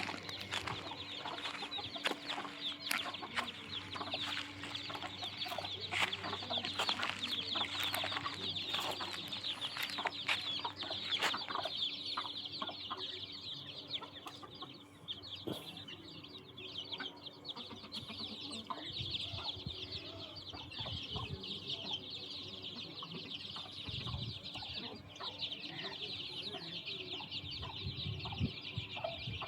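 Flock of desi chickens clucking, with a dense, continuous high-pitched chatter of calls and scattered sharp taps throughout.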